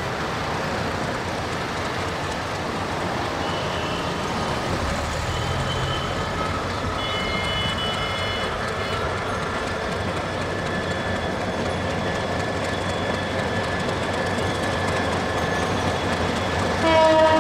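Diesel locomotive hauling a passenger train slowly out of the station: a steady rumble of engine and wheels on the curving track. A loud horn starts near the end.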